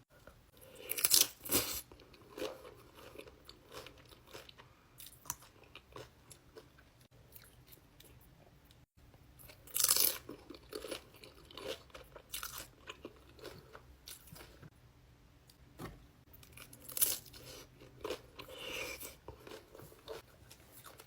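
Close-miked eating sounds of a person biting into and chewing crunchy food: loud clusters of crunches about a second in, around ten seconds and again around seventeen to nineteen seconds, with softer chewing crunches between.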